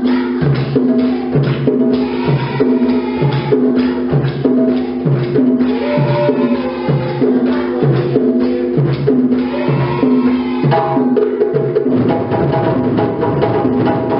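An ensemble of djembe drums playing an African drumming rhythm together, a steady repeating pattern with a deep stroke about every three-quarters of a second. The pattern changes about three-quarters of the way through.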